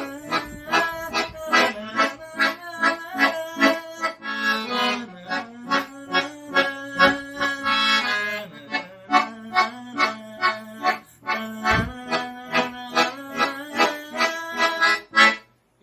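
Accordion (sanfona) playing a rhythmic chord accompaniment: short, evenly repeated chords about three a second over a held low note.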